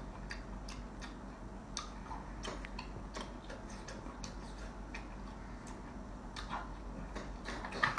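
Close-miked eating: irregular crisp clicks and crunches of chewing and biting, several a second, over a low steady hum.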